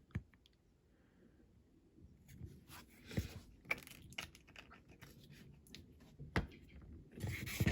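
Small diecast model parts being handled on a workbench: scattered sharp clicks and short rustles, starting after about two quiet seconds, with the loudest rustle near the end.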